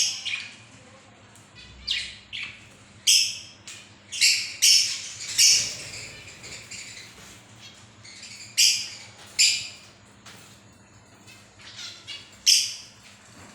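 Birds giving a series of short, shrill calls, about a dozen, at irregular intervals with gaps of a few seconds between some of them.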